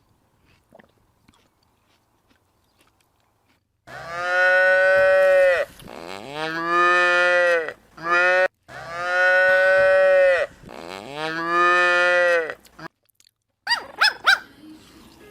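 Cow mooing: a series of long, drawn-out moos, each dropping in pitch as it ends, starting about four seconds in after a silent stretch.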